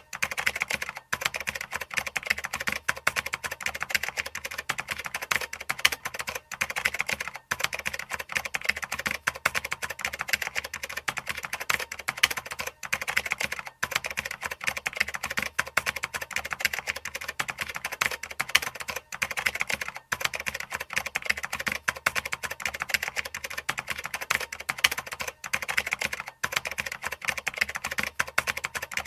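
Computer keyboard typing: fast, continuous key clicks with only very brief pauses.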